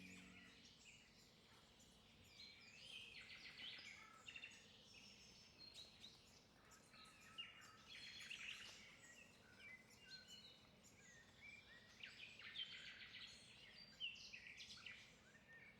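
Faint outdoor chorus of several songbirds calling and singing: many short chirps, trills and quick whistled sweeps, high-pitched, overlapping throughout.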